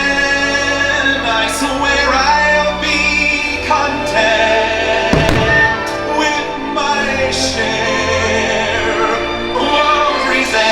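Fireworks-show soundtrack: orchestral music with choir singing. A deep bang comes about five seconds in.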